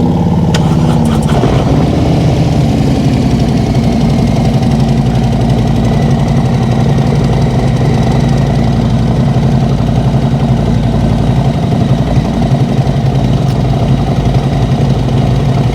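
Harley-Davidson Road Glide Special's V-twin engine, just started, running at a steady idle.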